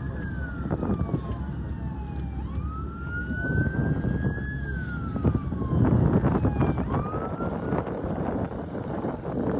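Emergency siren wailing, its pitch sliding slowly up and down in cycles of a few seconds, over a steady low rumbling noise that grows louder past the middle.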